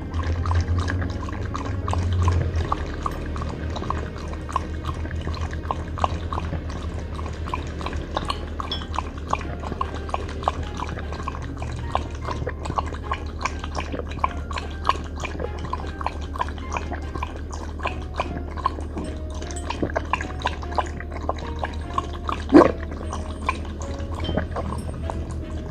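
Welsh corgi lapping water from a bowl: a rapid, even run of wet slurping laps, about three a second, with one louder knock near the end.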